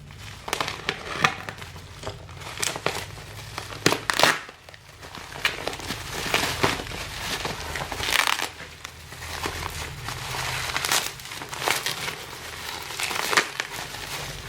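A shipping parcel being unwrapped by hand, its packing material crinkling and rustling in irregular handfuls, with several sharper crackles.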